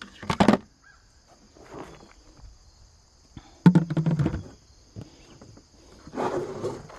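Steady high insect chirring, like crickets, with three bursts of scuffing footsteps and rustling, the loudest about halfway in.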